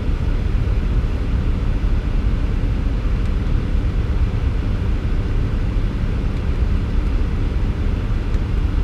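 Semi truck's diesel engine idling with a steady low rumble, heard from inside the parked cab.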